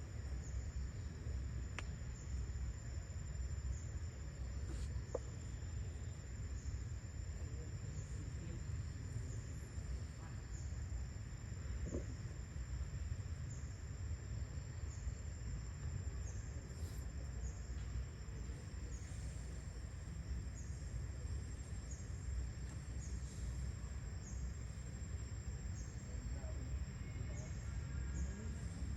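Insects trilling steadily at a high pitch, over a constant low rumble.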